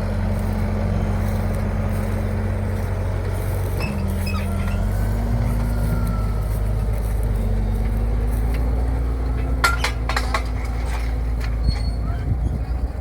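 Tractor engine running steadily; its pitch shifts about four seconds in and then slowly rises. A few sharp clicks and squeaks come about ten seconds in.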